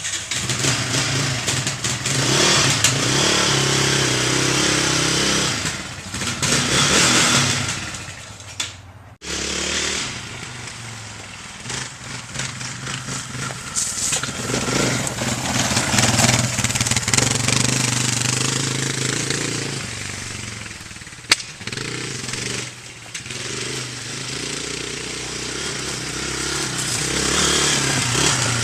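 Yamaha Raptor 660 ATV's single-cylinder four-stroke engine running and being revved up and down, with a sharp break in the sound about nine seconds in.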